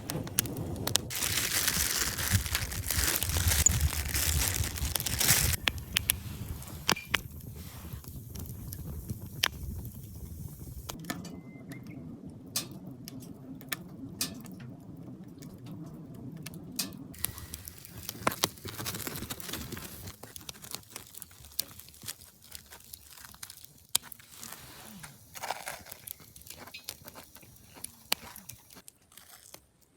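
Rustling and crinkling with scattered sharp clicks and taps: louder for the first five seconds or so, then quieter with sparse clicks.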